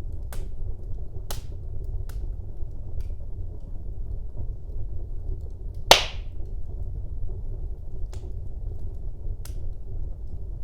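Wood fire burning in a fireplace, crackling with scattered sharp pops over a low steady rumble. One much louder crack comes about six seconds in.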